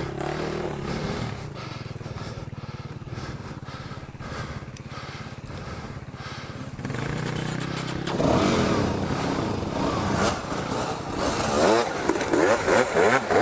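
Dual-sport motorcycle engine running at low, steady revs. From about eight seconds in it revs up and down repeatedly and louder, the throttle worked hard through mud.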